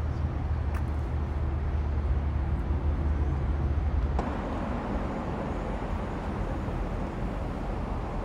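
Car engines and traffic: a nearby engine idling as a steady low drone, which breaks off abruptly about four seconds in, leaving a broader, even wash of vehicle noise.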